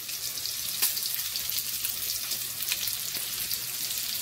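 Chopped Italian sausage pieces frying in oil in a frying pan: a steady sizzle full of small crackles, with one sharper pop a little under a second in.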